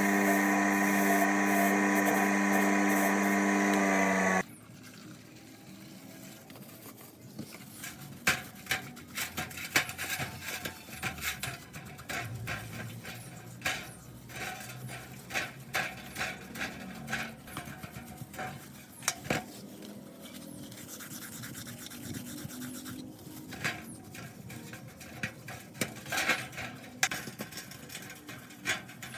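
A workshop machine's electric motor running with a steady hum, cutting off suddenly about four seconds in. Then comes irregular scraping and light clicking of hand work on metal parts.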